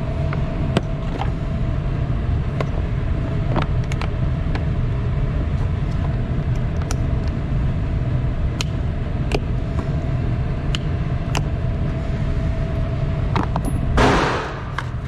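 Scattered sharp, faint gunshot cracks, one every second or so, over a steady low rumble. About a second before the end comes one much louder blast.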